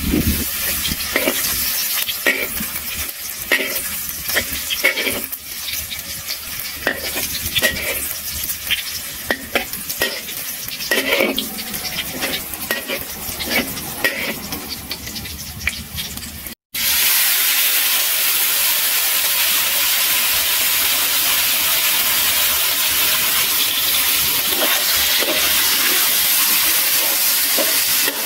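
Chopped garlic sizzling in hot oil in a metal wok, with a metal ladle scraping and tapping against the wok as it is stirred. About halfway through it cuts to a louder, steady sizzle of eggplants frying in oil.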